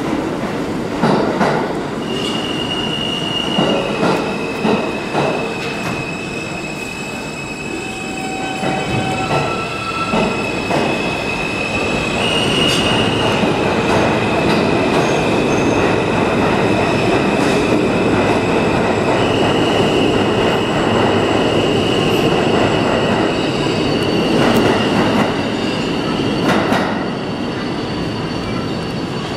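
R160A subway trains running through the station, the wheels squealing in long, steady high tones over a constant rumble. A quick series of knocks, wheels going over rail joints, comes in the first few seconds.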